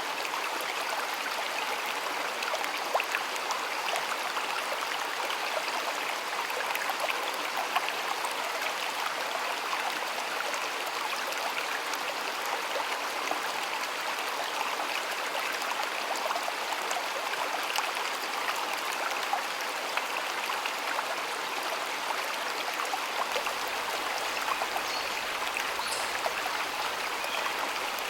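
Shallow stream water flowing steadily over stones, a continuous splashing and trickling rush.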